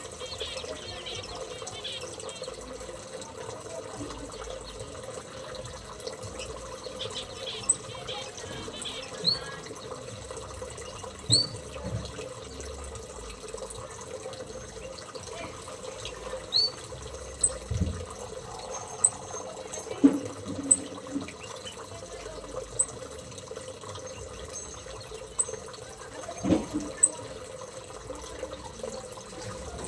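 Small aviary birds giving short rising chirps now and then, with sharper high chirps every second or two in the latter half, over a steady rush of running water. A few dull knocks sound in between.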